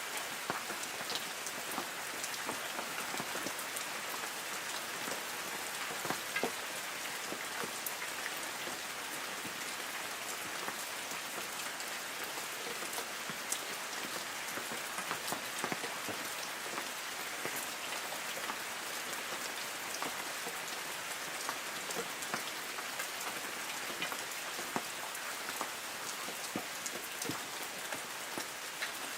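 Steady light rain falling on the leaves of forest trees: an even patter with many individual drops ticking sharply here and there.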